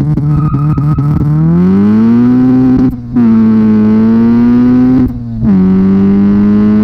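Exhaust of an H22A-swapped Honda Civic with Flowmaster and Borla mufflers, a four-cylinder accelerating hard: the note rises over the first two seconds, then holds high. It breaks off briefly twice, about three and five seconds in, and comes back a little lower each time, as with gear changes.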